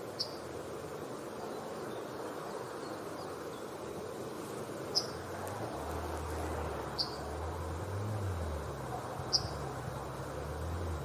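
Yellowhammer giving four short, high call notes spaced a few seconds apart, over a steady background hiss, with a low rumble in the second half.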